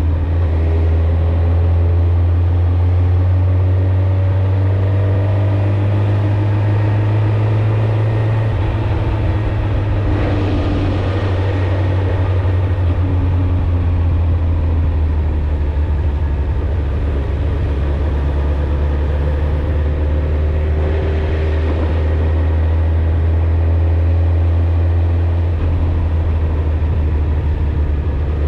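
Suzuki GSX-R1000 inline-four engine and exhaust running steadily while the bike is ridden, its low note shifting about a third of the way in and again near the end.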